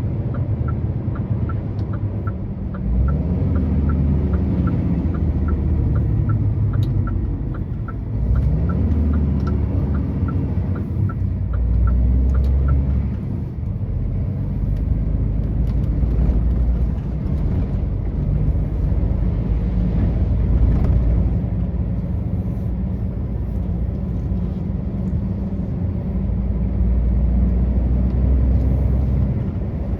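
Truck engine running under way, its note rising and falling a few times. A turn-signal indicator ticks about twice a second and stops about thirteen seconds in.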